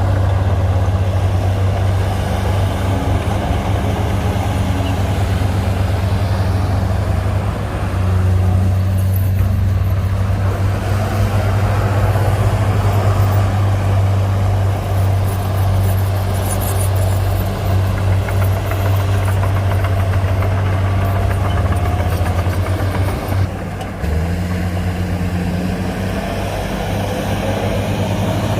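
Heavy diesel engine of earthmoving machinery running under load with a steady low drone. It briefly drops and shifts in pitch about 24 seconds in, then picks up again.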